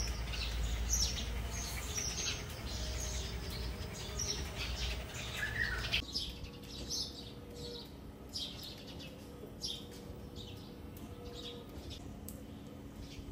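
Small birds chirping over and over in short high calls. A low rumble sits under them for the first six seconds and stops abruptly.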